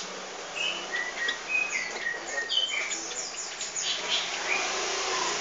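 Small birds chirping: many short, high notes in quick, irregular succession.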